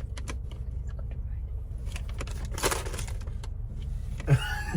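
Steady low hum of a car idling, heard inside the cabin, with a few small clicks and a brief rustle about two and a half seconds in; a voice begins near the end.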